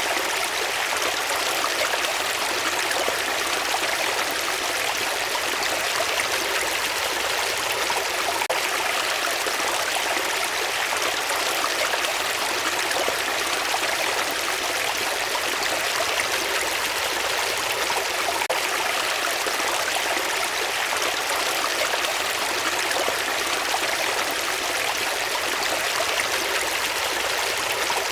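Running water, a steady unbroken rush with no change in level.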